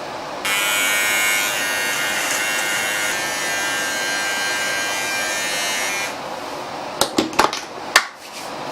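Electric shaver buzzing steadily on the neck, switched on about half a second in and off about six seconds in. A few sharp clicks follow near the end as it is handled.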